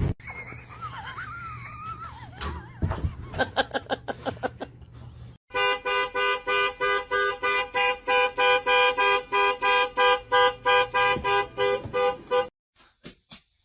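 A two-tone horn beeping in quick repeated blasts, about four a second for some seven seconds, starting about five seconds in and then stopping. Quieter, unclear sounds come before it.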